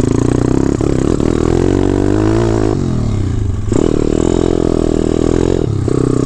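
Dirt bike engine running under throttle while riding. The revs sag and fall off about three seconds in, pick back up strongly just before four seconds, and dip briefly again near the end.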